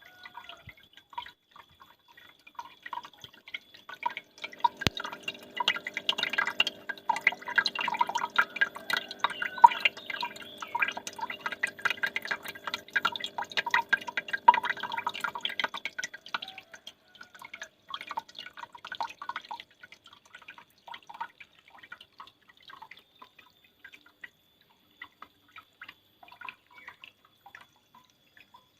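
Water dripping and splashing from a homemade mini waterfall. The drops fall fast and thick, over a steady low hum, from about four seconds in until past the middle, then thin to scattered single drops.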